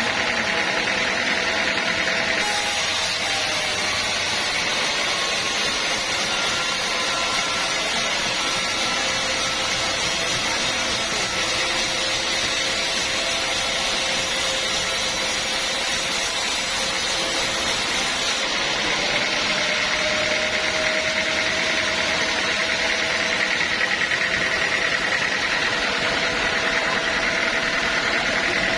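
Sawmill saw running steadily through a teak log, with a constant machine hum and whine. From about two seconds in until about eighteen seconds, a brighter hiss sits on top of it.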